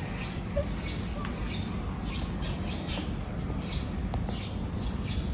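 Birds calling outdoors: a run of short, high, downward-sliding chirps repeating a couple of times a second, over a steady low rumble.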